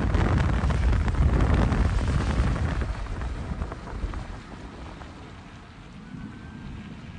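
Storm wind buffeting the microphone with rain, a dense low rumble that is loud for the first few seconds and then dies away.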